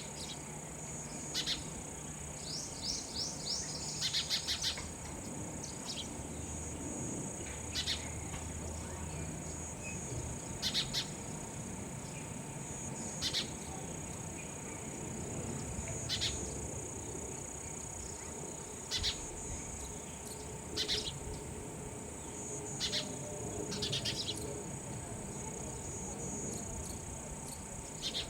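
Sparrow chirping in short, sharp single notes every two to three seconds, with a quick run of chirps about three seconds in. A steady high-pitched insect drone runs underneath.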